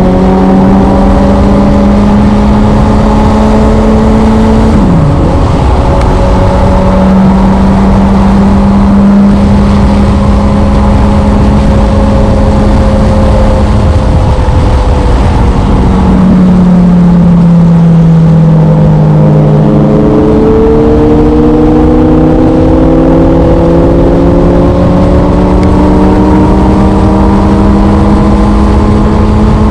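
Motorcycle engine running under way. Its pitch holds steady, drops sharply about five seconds in, sags for a few seconds past the middle, then climbs steadily as it accelerates, over a constant low rushing noise.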